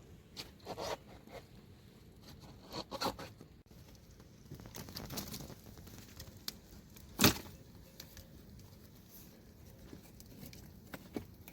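Intermittent rustling and scraping, with one sharp knock about seven seconds in.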